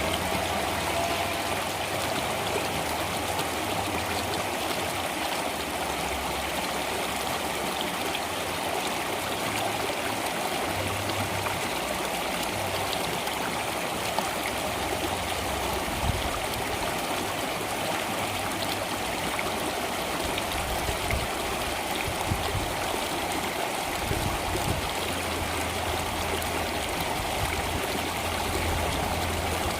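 Water flowing steadily in a stream.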